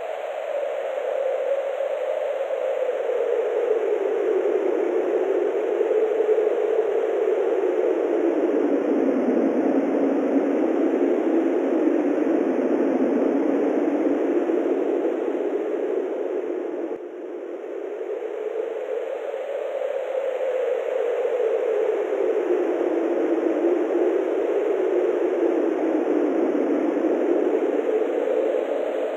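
Wind blowing steadily, its pitch slowly sinking and rising again in long swells, with a brief dip about seventeen seconds in.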